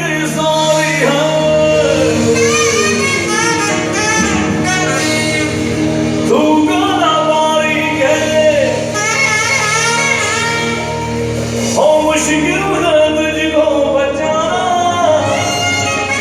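Male vocalist singing a melodic line over live band music, with held instrumental chords and a steady bass.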